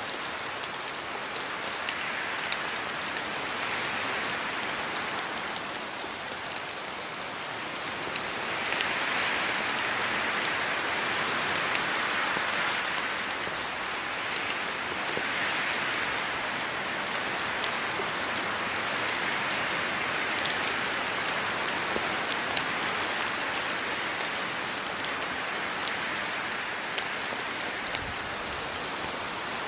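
Steady rain falling, with many separate drops ticking sharply through the downpour, growing a little heavier about a third of the way in.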